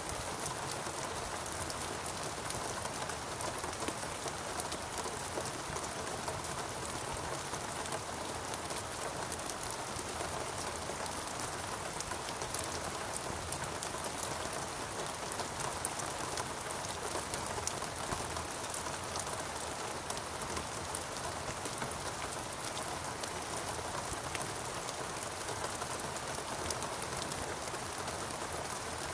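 Steady rainforest rain, an even hiss of rainfall with many small drops pattering on leaves and surfaces.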